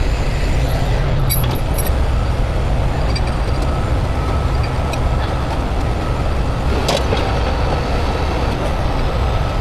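Steady low rumble of vehicle engines and road traffic, with a few faint clicks.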